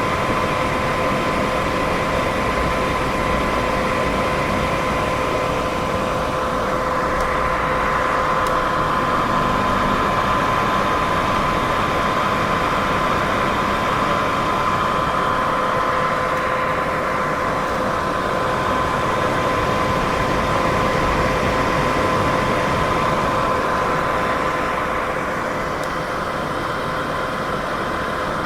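Continuous white noise for sleep: an even, steady hiss with a faint steady hum running through it, swelling and easing slightly every several seconds.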